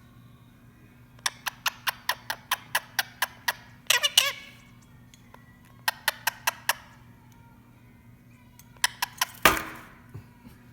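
Small metal bird-toy bell being rung by a ringneck parrot, in quick runs of tinkling strikes about four a second. There is a louder ring about four seconds in, and the loudest, longest ring comes near the end.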